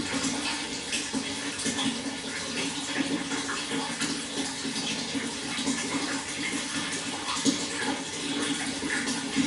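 Water flowing steadily, a continuous rushing with small splashy flickers.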